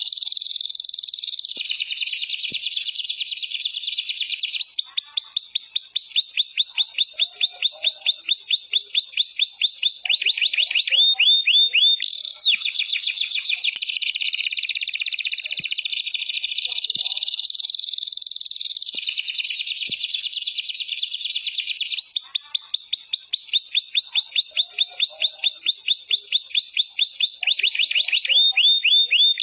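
Domestic canary singing a long continuous song of fast trills and rolls, with a run of quick falling notes twice. The song is a 'masteran' tutor recording, played to teach young canaries a rich song.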